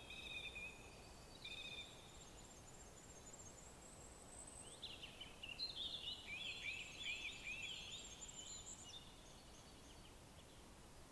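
Wild songbirds singing faintly over a steady background hiss. Short whistled phrases come in the first two seconds, alongside a thin, high run of notes. From about five to nine seconds in comes a busier song of quick, rapid notes.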